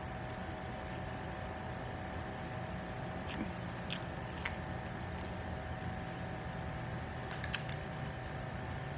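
A person biting and chewing Domino's pizza crust close to the microphone, with a few short crisp clicks of the bite and chew around the middle and again near the end, over a steady background hum.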